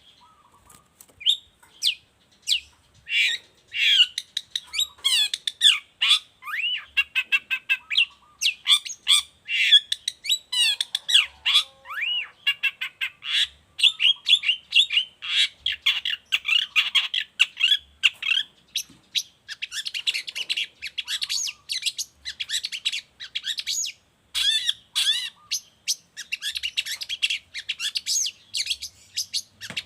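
Long-tailed shrike (cendet) singing a loud, continuous, fast-paced song: a rapid string of varied chirps, whistled slurs and harsh chattering notes with only brief pauses.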